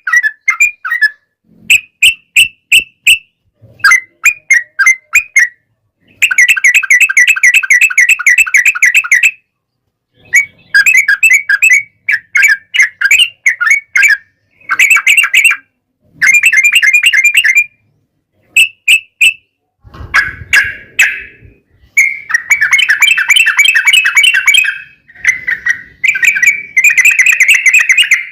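Yellow-vented bulbul (trucukan) singing loud, bubbly gurgling phrases over and over, broken by short pauses. Twice the song runs on for about three seconds as a fast rolling warble, the long 'ropel' run valued by bird keepers.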